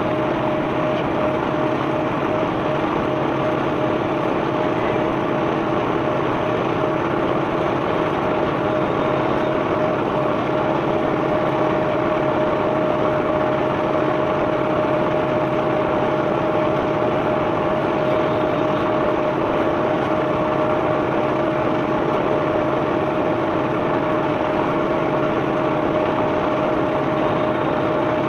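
Engine of the unloading machinery running steadily, a constant whine over a dense even rumble.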